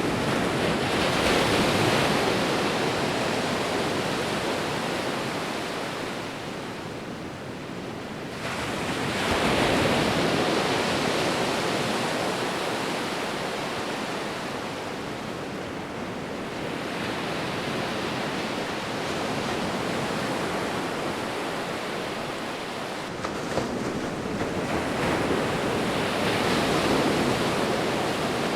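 Sea waves breaking and washing up a shore, a steady rush that swells and ebbs in four surges roughly eight to nine seconds apart.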